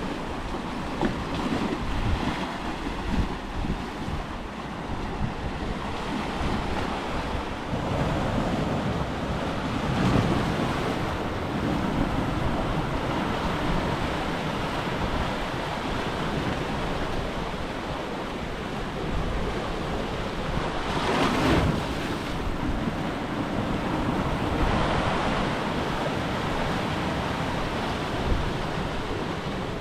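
Sea waves washing and breaking against a rocky shore, swelling and easing in surges, with wind buffeting the microphone. One surge, a little past two-thirds of the way through, is the loudest.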